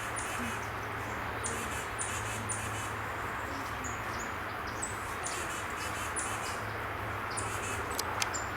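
Small songbirds calling, a rapid series of short, high-pitched notes repeated throughout, over a steady low hum.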